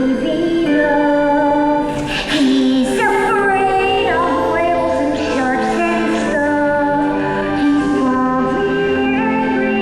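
A singer holding long, wavering notes over recorded musical backing: a song from a live stage musical.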